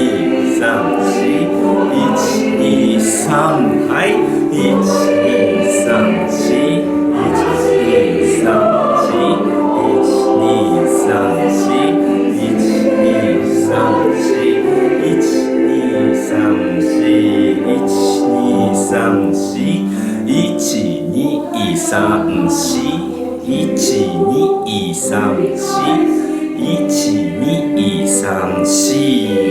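A choir singing a Japanese school chorus song in sustained, flowing phrases.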